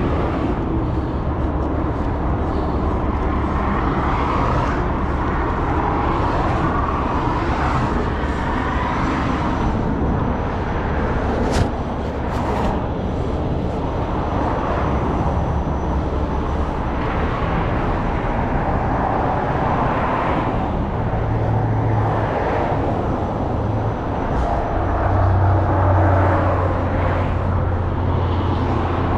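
A heavy truck engine running steadily under a broad noise that swells and eases, with a single sharp click a little under halfway through. The low hum grows stronger near the end.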